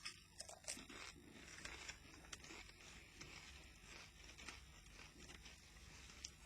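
Faint, irregular crunching of potato crisps being chewed, a scatter of small crackles and clicks.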